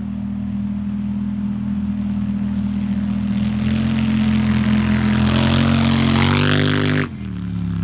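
2015 Polaris Scrambler ATV engine through a custom-made slip-on exhaust, running and then climbing in revs and getting louder from about three seconds in. About seven seconds in the throttle is shut and the revs drop away.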